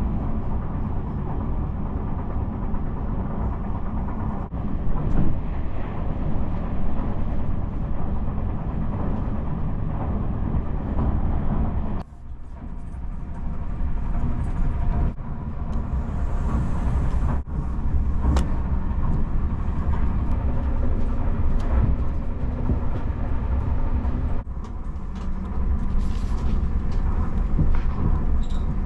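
Tobu Spacia X electric train running, heard inside the carriage: a steady low rumble with scattered short clicks and knocks. The rumble drops off suddenly about twelve seconds in, then builds back up.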